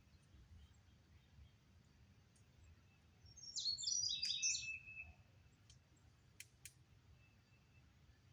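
A songbird sings one short, jumbled burst of rapid high notes about three seconds in, ending on a briefly held note. Two faint clicks follow a little later.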